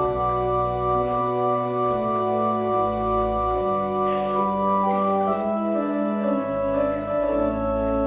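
Church organ playing slow, sustained chords over a deep bass line that moves to a new note every second or two.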